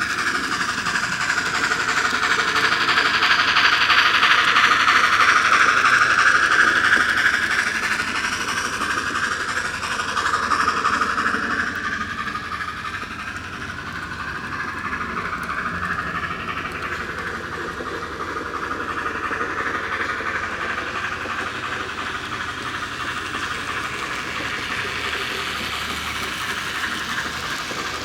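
N scale model train running on the layout's track: a steady whir of the small locomotive and its wheels that drifts up and down in pitch. It is loudest about four to seven seconds in, then falls back and swells again more gently.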